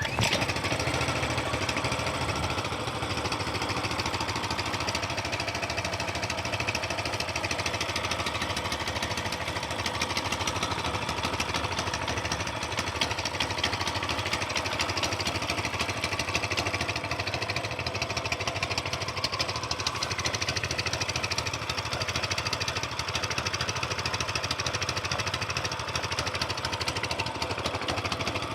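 Coleman mini bike's small single-cylinder four-stroke engine catching right at the start and then running at a steady idle.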